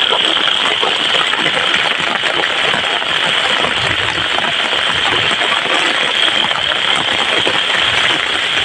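Heavy rain falling steadily: a dense, even patter of raindrops with no let-up.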